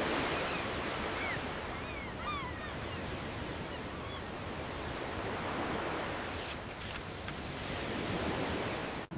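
Steady rush of surf and wind, with a few short high chirps over it between about one and four seconds in.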